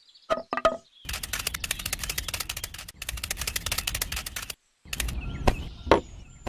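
Rapid, even mechanical clicking, about ten clicks a second, in stretches broken by short gaps, with a couple of louder knocks near the end.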